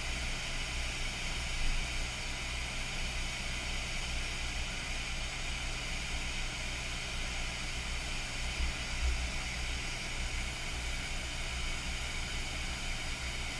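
Hot air rework station blowing at high airflow, a steady airy hiss, as it heats the solder holding an HDMI port on a circuit board.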